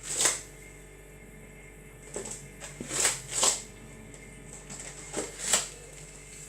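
A few short, sharp clicks or taps, about six spread over several seconds and uneven in spacing, from something being handled.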